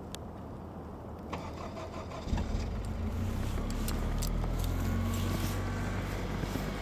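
An Acura car's engine started cold after a night under snow: a few light clicks, then about two seconds in the engine catches and settles into a steady idle.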